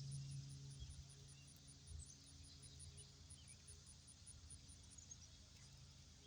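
Near silence: faint outdoor background with a high, insect-like chirp repeating about five times a second that stops about five seconds in, over a low steady hum.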